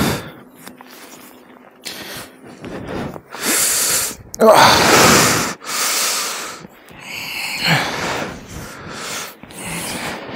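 Storm wind buffeting the camera microphone in uneven gusts, each rush lasting about a second, the strongest a few seconds in.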